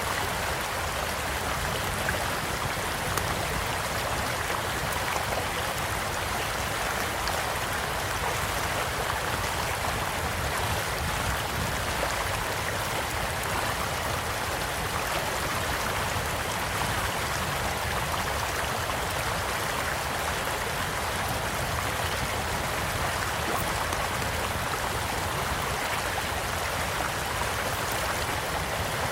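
A small stream flowing steadily, with the faint scattered pops of a crackling campfire on top.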